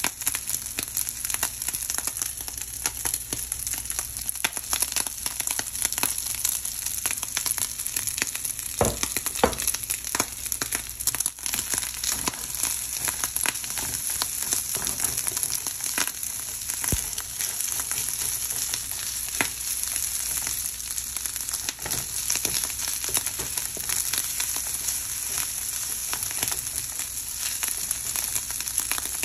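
Fried rice with shrimp sizzling in a nonstick frying pan, a steady high hiss, with frequent short scraping clicks from a slotted spatula stirring and turning the rice against the pan.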